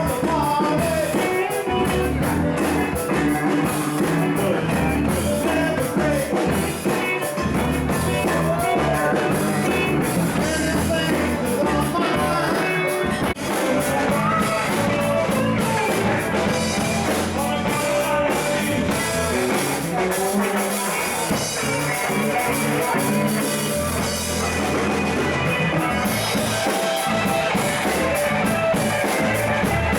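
Live rock band jamming: electric guitar, bass and drum kit playing steadily, with some singing.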